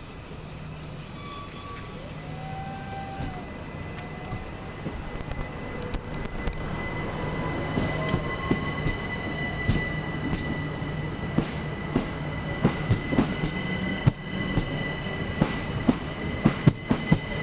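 Class 375 Electrostar electric multiple unit coming through the station, growing louder as it nears, its wheels clicking over rail joints faster and louder in the second half, with a steady high-pitched squeal.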